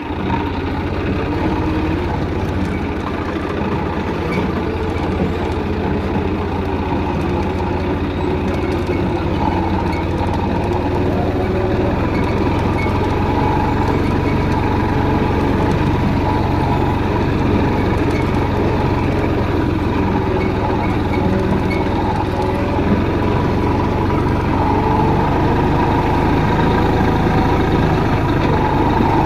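Tractor engine running steadily, with a strong low hum and a slight rise in loudness toward the end.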